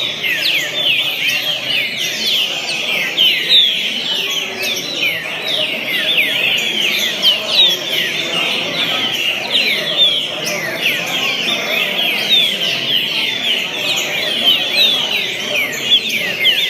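Green-winged saltator (trinca-ferro) singing: a fast, unbroken run of high, descending whistled notes that goes on without a pause.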